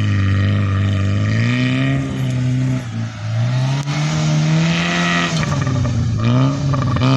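Tofaş Doğan SLX's four-cylinder engine revving up and falling back several times while the car is stuck in snow.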